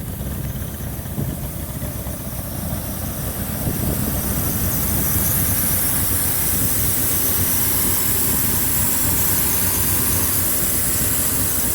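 Dodge 360 (5.9 L) small-block V8 idling steadily through a custom exhaust with a Pypes Violator muffler, a low rumble that grows louder about four seconds in as a hiss joins it.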